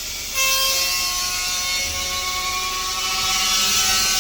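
Container trailer's air suspension being raised: compressed air hissing into the air bags with a steady, several-toned whistle, starting suddenly about half a second in.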